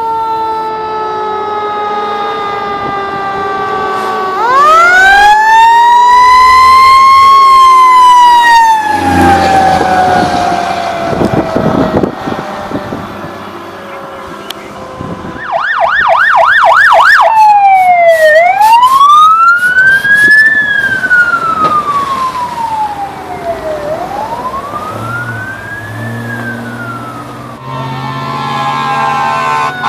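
Fire engine sirens passing: a mechanical siren winds up smoothly about four seconds in and coasts slowly down in pitch. Then, about halfway through, an electronic siren yelps rapidly and switches to long rising and falling wails. Steady horn tones, typical of an air horn, sound near the end.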